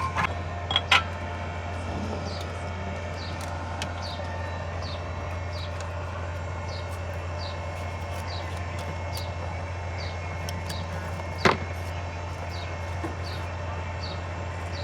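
Metal tools clinking on a car engine during valve tappet adjustment: a few sharp clinks about a second in and one loud clink about eleven seconds in, over a steady low hum. A faint high chirp repeats about twice a second.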